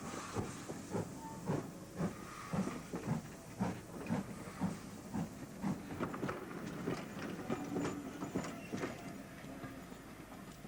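Great Western Manor class 4-6-0 steam locomotive Lydham Manor working a train, its exhaust chuffing about twice a second over a steam hiss, the beats growing fainter near the end.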